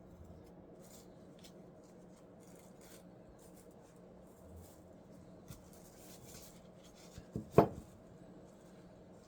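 Small parts and tools handled on a workbench: faint clicks and light scraping, then one sharp knock about seven and a half seconds in.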